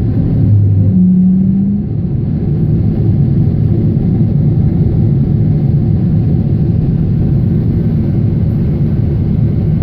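Boeing 777 jet airliner's steady low rumble of engines and airflow. Two short low hums, the second higher than the first, sound about a second in.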